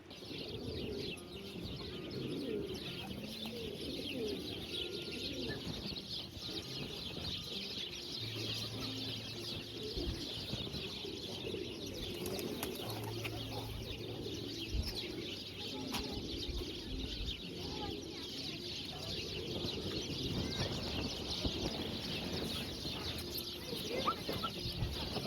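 Pigeons cooing, with a dense chatter of small birds chirping throughout.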